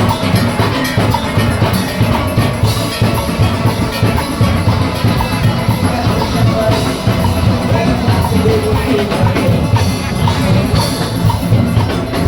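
A steel orchestra playing: many steelpans over a drum kit and percussion, keeping a steady, driving beat.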